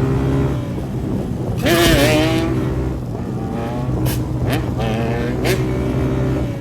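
Motorcycle engine running, its pitch rising and falling, with a louder burst about two seconds in.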